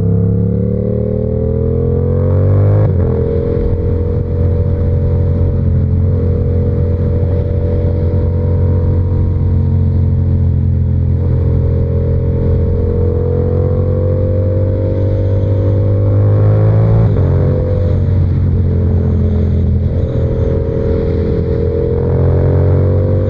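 Yamaha R7's 689 cc parallel-twin engine, fitted with an SC-Project exhaust, pulling under throttle with its pitch climbing, then dropping sharply on an upshift about three seconds in. It then holds a steady cruise, with another climb and shift around the seventeen-second mark and a further rise in revs near the end.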